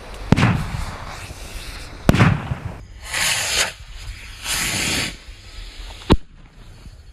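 Fireworks strapped to a toy airplane going off one after another rather than together: sharp bangs about a third of a second in, at about two seconds and again near six seconds, with two short hissing spurts between them.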